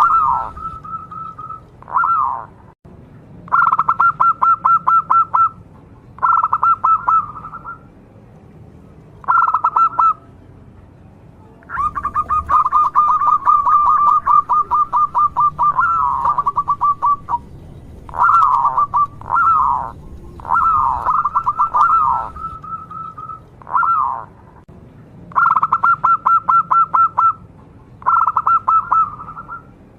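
Zebra dove (perkutut) cooing persistently: bouts of quick, staccato pulsed notes, each lasting one to two seconds with short pauses between, and one longer run of about five seconds midway.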